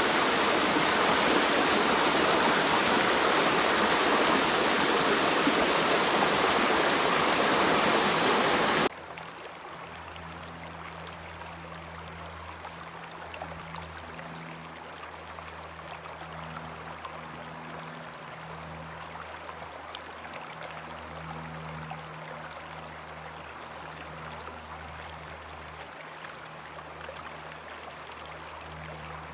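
Creek water rushing steadily. About nine seconds in it cuts off abruptly to a much quieter background with a faint low hum.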